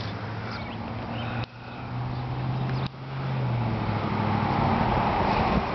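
A motor vehicle's engine running nearby with a steady low hum. It grows louder from about three seconds in, and the sound briefly drops out twice where the footage is cut.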